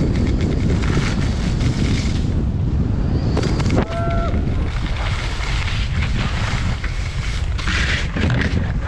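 Wind rushing over the microphone of a moving skier, with skis scraping and chattering on the snow and a louder scrape near the end. A brief pitched tone sounds about four seconds in.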